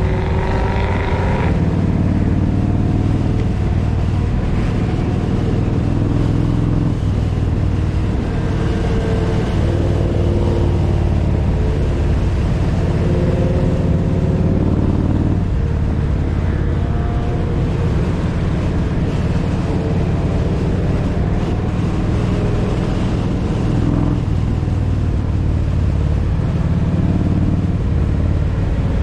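Kawasaki Vulcan 1700 Voyager's V-twin engine running steadily under way, with road and wind noise, its note shifting a few times.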